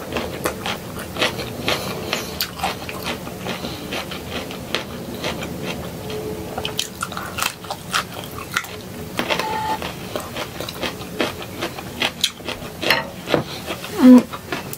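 A person chewing and biting broccoli, with a run of short crunches and wet mouth clicks. A brief louder sound comes near the end.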